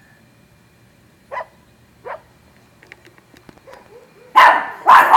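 Dogs barking: two single barks about a second apart, a few faint ticks, then loud, repeated barking starting near the end.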